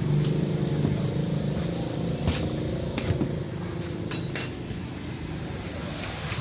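Small motorcycle engine running, its steady hum slowly dying away, with a knock and then two sharp metal clinks of tools about four seconds in.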